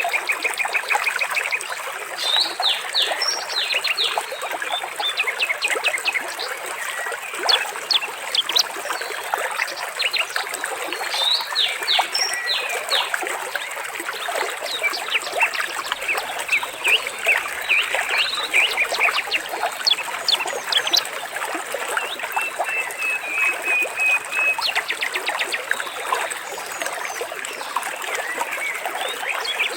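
Water trickling steadily, with small birds chirping over it and a short trilling call about three-quarters of the way in.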